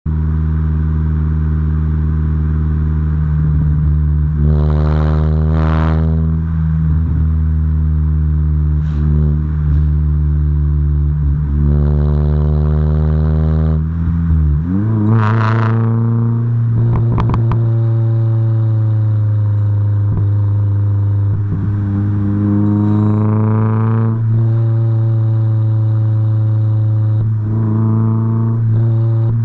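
Honda D16Z6 1.6-litre SOHC VTEC four-cylinder in a Civic EK, breathing through a 4-2-1 header and a 2.35-inch custom exhaust, idling steadily and free-revved in about six short throttle blips, each rising and falling back to idle.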